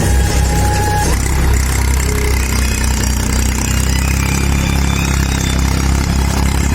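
Force Orchard DLX tractor's diesel engine running at a steady speed, a loud, even low hum.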